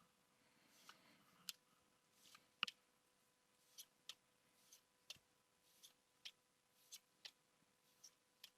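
Pokémon trading cards being handled and flipped through one by one. Faint, irregular crisp clicks and short swishes come about one or two a second, the loudest a little under three seconds in.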